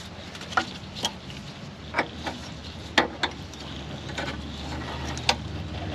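Metal hand tools clinking and knocking: about half a dozen sharp clicks, irregular and roughly a second apart, over a steady low hum.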